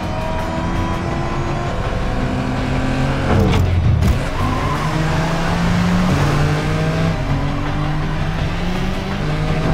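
Car engines revving hard and accelerating through the gears, with one car rushing close past about three and a half seconds in. A music score plays underneath.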